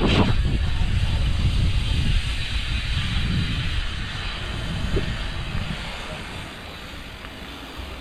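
Wind rushing and buffeting over an action camera's microphone on a moving bicycle, a low fluttering rumble with hiss that gradually dies down over the second half.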